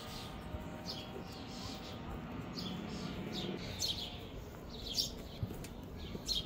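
Songbirds chirping: short, falling chirps repeated about once or twice a second over a low steady background.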